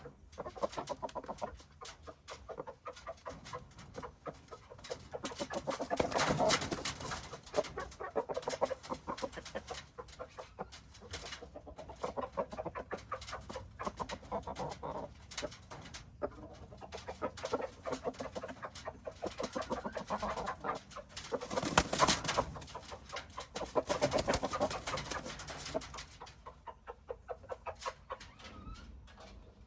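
Chickens clucking in short bouts every few seconds, over a run of short ticks.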